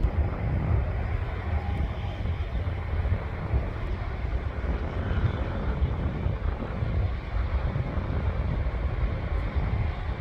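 Steady noise of airliner engines, with wind rumbling on the microphone.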